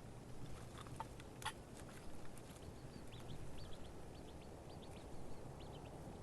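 A small bird chirping in a run of short, high, falling notes through the second half, over a low wind rumble, with two sharp clicks about a second in.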